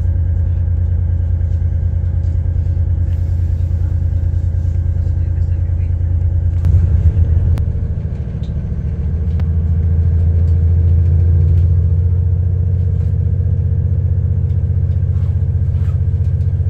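Steady low rumble of a diesel intercity train heard from inside the carriage as it runs slowly into a station, with a brief louder patch about seven seconds in and the level dipping and then swelling again.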